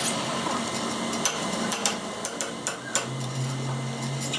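Metal tools and parts being handled on a workbench: a sharp knock at the start, then light, irregular metallic taps and clinks over a steady low hum that grows louder about three seconds in.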